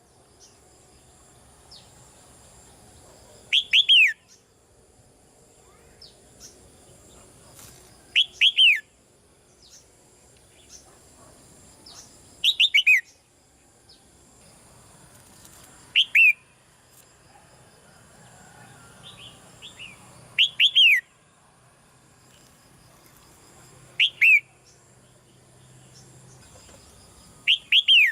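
Red-whiskered bulbul calling: loud short bursts of two to four quick downslurred notes, repeated about every four seconds.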